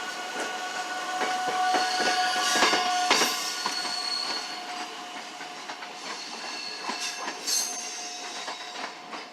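South Shore Line electric commuter train rolling slowly through the station, its wheels clicking over rail joints with a steady metallic squeal. It is loudest a few seconds in, then fades as it moves away.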